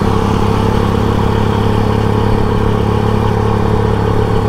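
Customised 1997 Honda GL Pro's single-cylinder four-stroke engine running at a steady, unchanging speed while the bike is ridden, heard from the rider's seat.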